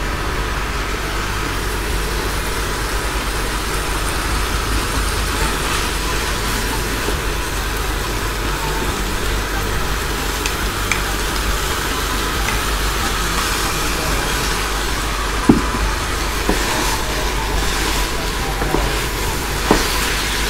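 Kimchi, shrimp and rice sizzling in a hot frying pan as they are stirred with a wooden spatula, over a steady low hum, with a few sharp knocks of the spatula against the pan in the second half.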